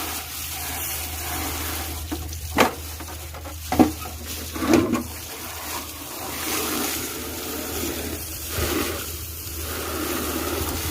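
Water running or splashing steadily over a low hum, with three sharp knocks a little over a second apart in the first half.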